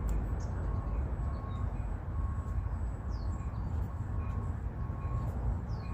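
Steady low rumble of an approaching train, with a faint high tone repeating about every 0.7 seconds and a couple of short bird chirps.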